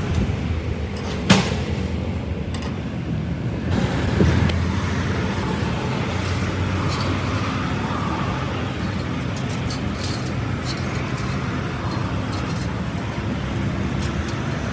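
A motor or engine running steadily with a low hum, and a single sharp click about a second in.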